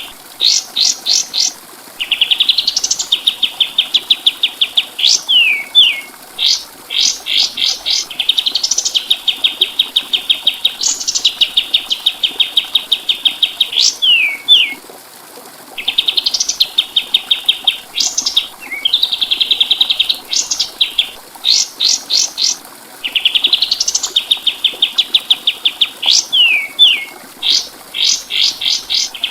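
Kapas tembak songbird singing a loud, repeated song. Each phrase is a fast rattling trill, broken by quick upward-sweeping whistles and a few short falling notes, and the phrase comes round about every seven seconds.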